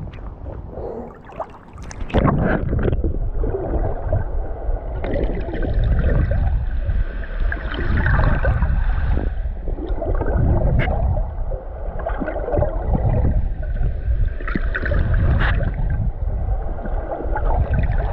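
A swimmer's strokes in open water: water splashing and sloshing close against the camera, with a heavy low rumble, swelling every two to three seconds.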